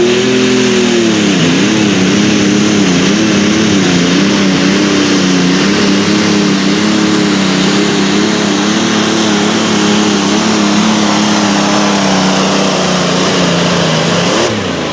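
Pulling tractor or truck engine running hard under load on a pull. Its pitch dips about a second and a half in, wavers, then holds steady before dropping off near the end.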